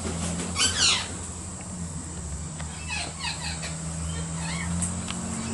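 Wild birds calling: one loud, harsh call made of quick downward sweeps just under a second in, then softer chirps and short whistled notes, over a low steady hum.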